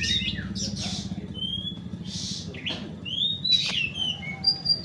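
Oriental magpie-robins (kacer) singing in a songbird contest: quick, overlapping whistled phrases with rising and falling notes and a few harsh, hissing notes, over a steady low rumble.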